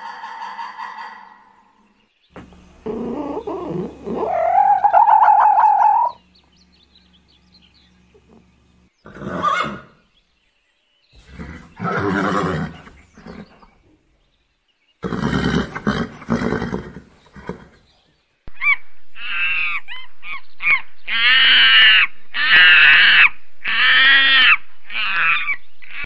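A string of separate animal calls from different animals, one after another with short gaps between them, ending in a run of short, repeated calls that arch up and down in pitch.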